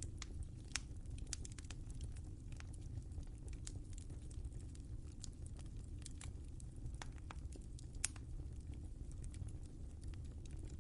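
Wood fire crackling in a fireplace: a steady low rumble of the flames with irregular sharp pops and snaps, two louder pops about a second in and near the end.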